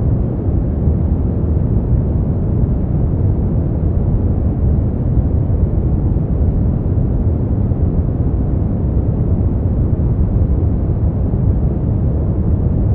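Brown noise: a steady, deep noise, strongest in the low end and fading off toward the highs, with no tones or changes.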